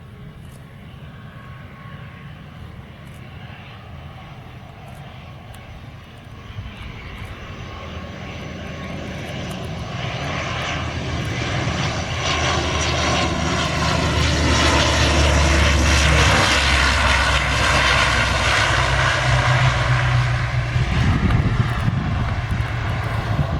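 Airliner engines growing from faint to loud over about ten seconds as the aircraft comes closer, then holding a loud, steady drone with low steady tones.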